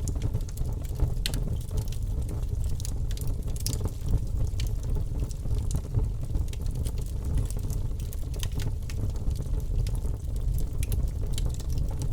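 Fireplace fire burning with a steady low rush and frequent sharp crackles and pops scattered irregularly throughout.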